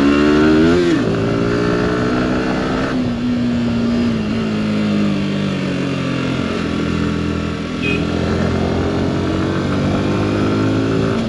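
Yamaha R15 V4's single-cylinder engine under way on the road. The revs climb and drop sharply with a gear change about a second in, hold, then fall away slowly for a few seconds. Near the end they climb steadily again.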